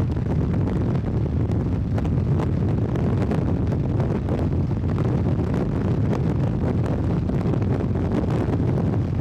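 Steady road and wind noise inside a moving vehicle, a dense low rumble with many small scattered ticks on top.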